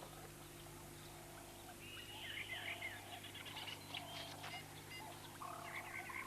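Faint chirping calls of red-and-yellow barbets: short repeated notes and quick up-and-down chirps begin about two seconds in, over a faint steady hum.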